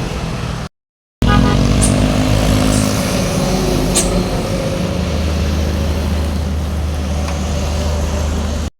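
A heavy truck's engine as it goes by on the road, its note falling in pitch, then settling into a steady low drone. A brief sharp hiss about four seconds in.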